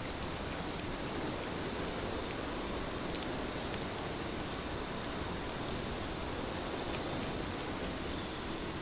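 Heavy rain falling steadily: a dense, even hiss with a few individual drop ticks scattered through it.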